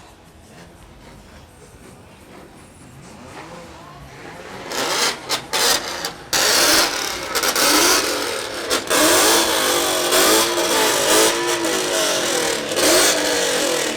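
Car engine revving hard, way too loud: a few quick throttle blips about five seconds in, then held high revs that rise and fall, as in a rev competition.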